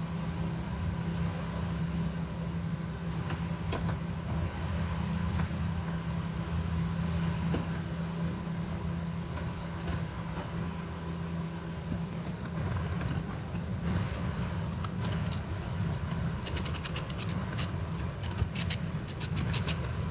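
A steady low hum throughout, with scattered metal clinks of tools. In the last few seconds comes a run of rapid clicking from a socket ratchet driving the seat screws back in.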